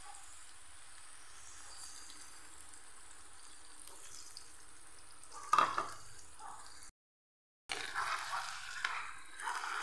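Chayote strips and beaten egg frying in a wok with a steady sizzle, broken by one sharp knock about five and a half seconds in. After a brief gap the sizzling returns louder and more uneven.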